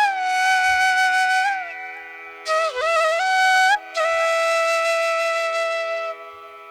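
Background music: a flute playing slow, long held notes with sliding bends between them, over a steady drone.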